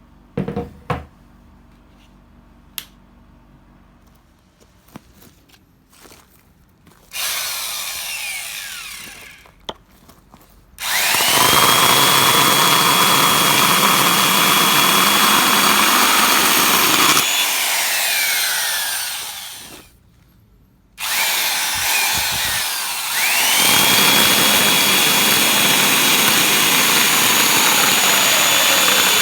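Makita 5011NB electric chainsaw run in two long bursts after a few clicks. Each time the motor whine rises as it spins up and then runs steady, and after the first burst it winds down and stops.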